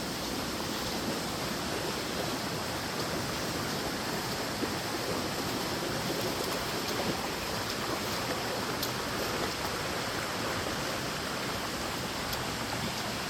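Steady rush of a flood-swollen creek.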